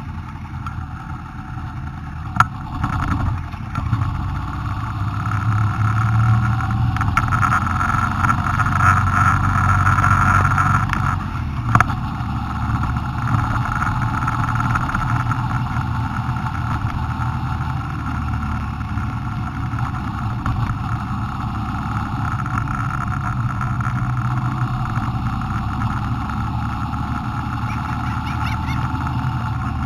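Honda Transalp motorcycle engine running while riding, with steady road and wind noise; the engine note rises between about six and eleven seconds in, then settles. Two sharp knocks sound, one about two seconds in and one about twelve seconds in.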